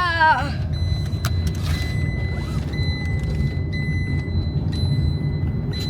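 Low, steady rumble of a car heard from inside the cabin, with a faint steady high whine and a few light clicks about a second in.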